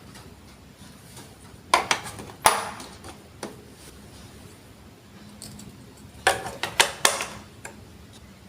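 Sharp clicks and clatters of hard plastic Lego Duplo marble-run pieces, in two bursts: a cluster of knocks about two seconds in and another about six to seven seconds in.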